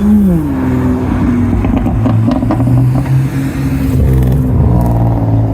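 A car engine revs up, then drops off sharply as the throttle is released and settles into a steady low drone, with a few sharp cracks from the exhaust in the middle.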